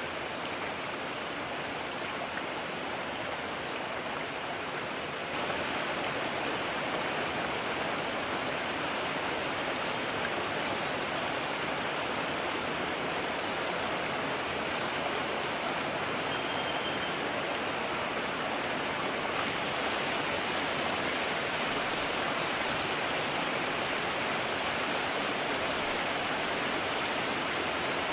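Mountain stream rushing, a steady sound of flowing water that steps up louder about five seconds in.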